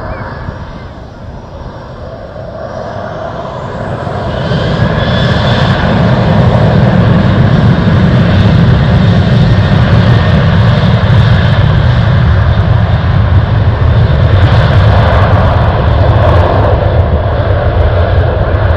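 Aircraft engine noise building over the first few seconds, with a high whine rising in pitch, then holding loud and steady.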